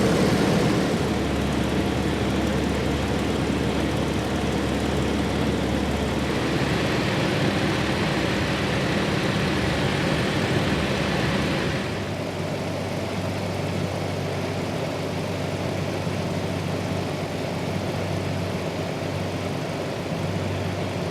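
Nanchang CJ-6's nine-cylinder radial engine and propeller running steadily in flight. About twelve seconds in the sound changes abruptly and becomes duller.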